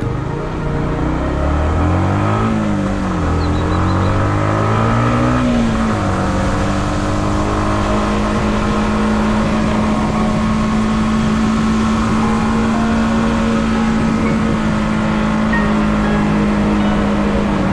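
Yamaha MT motorcycle engine revving, its pitch rising and falling a few times over the first six seconds, then running at a steady pitch.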